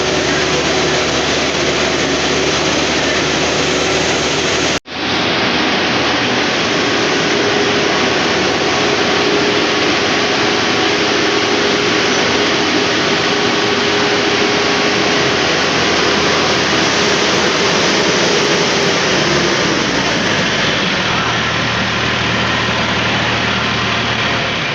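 John Deere engine of a side boring machine running loud and steady, with a brief instant dropout about five seconds in and its note dropping slightly about two-thirds of the way through.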